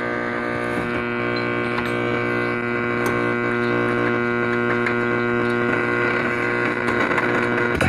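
Konzert amplifier's test speaker putting out a steady, loud mains hum with many even overtones while the amplifier sits on an input with no signal.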